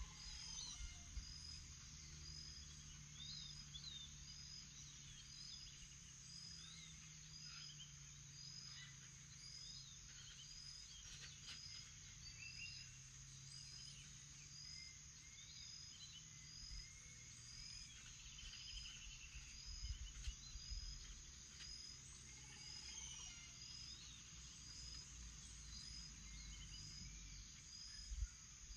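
Faint morning chorus of wild birds and insects: a steady high insect drone, a short high chirp repeating about once a second, and scattered bird chirps and whistles over it.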